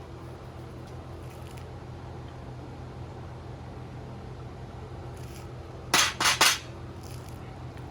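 Steady low electrical hum, with three quick metal-on-metal scrapes close together about six seconds in.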